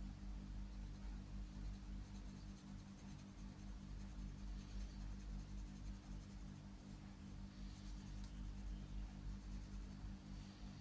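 Faint rubbing and rustling of origami paper being folded and creased by hand, over a low steady hum.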